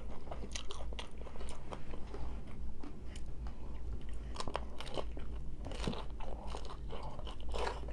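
Close-up chewing and crunching of hard-shell tacos: irregular crisp crunches with wet chewing between them.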